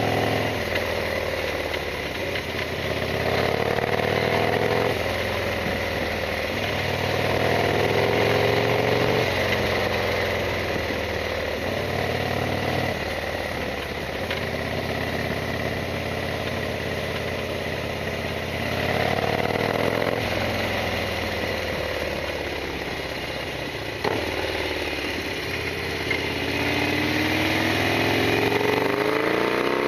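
Harley-Davidson XL1200R Sportster's air-cooled V-twin engine under way, its pitch rising and dropping back again and again as it pulls through the gears.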